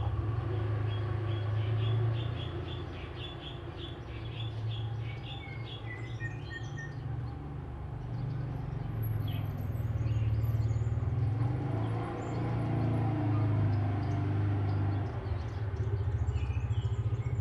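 Oriental magpie-robin (kacer) singing. It opens with a fast run of repeated chirps, followed by scattered whistles and chirps. A steady low hum runs beneath the song.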